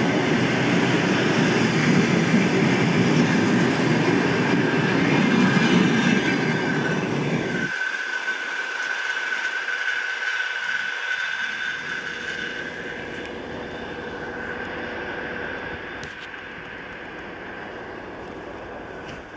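A passenger train moving past on the rails, its wagons rumbling loudly until the rumble cuts off sharply about eight seconds in. After that a steady high ringing tone remains and fades as the train draws away.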